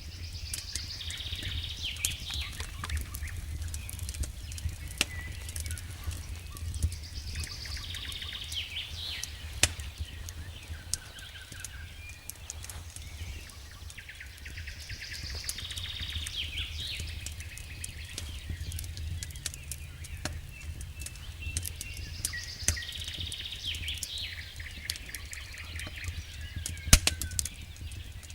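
Wood fire burning in a fireplace, with a low steady rumble of flames and frequent sharp crackles and pops, a louder pop about 27 seconds in. A high chirping sound recurs about every seven or eight seconds.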